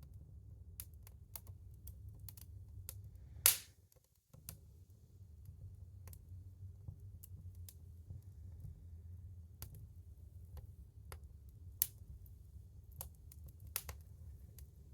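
Wood fire crackling in a woodstove: irregular sharp pops over a low steady rumble, with one loud pop about three and a half seconds in.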